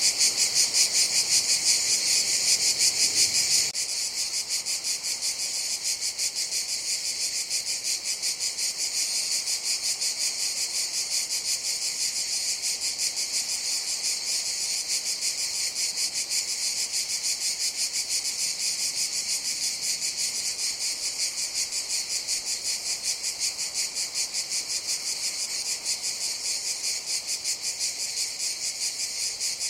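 Cicadas singing in a steady chorus, a dense, high-pitched pulsing buzz that drops a little in level about three and a half seconds in.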